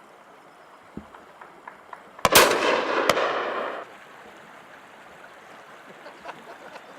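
Shotgun fired twice, about a second apart, with Eley Hawk Zenith cartridges; the first shot is loud and close and its report rolls on for over a second in the valley. Fainter, more distant shots from other guns crackle around it.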